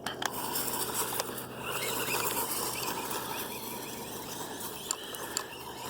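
Hosim S911 RC truck driving over the yard: its small electric motor whirring and its tyres running through grass and debris, with a few sharp clicks.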